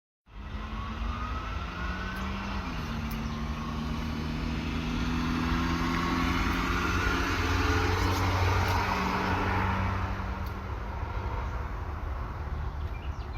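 An engine running steadily, its hum stepping down in pitch about two and a half seconds in, under a rushing noise that swells in the middle and fades again.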